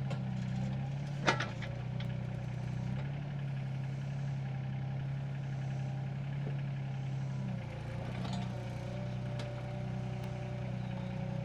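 A SANY excavator's diesel engine running steadily, with a sharp clack about a second in. The engine note shifts slightly about two thirds of the way through as the machine goes to work digging a post hole.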